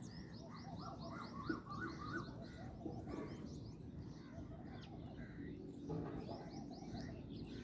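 Sparrows and other birds chirping together, with quick runs of high, rapid chirps and lower arched calls mixed in.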